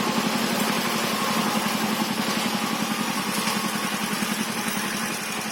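Single-cylinder diesel engine of a mini power tiller running steadily with a fast, even chugging, getting a little quieter near the end.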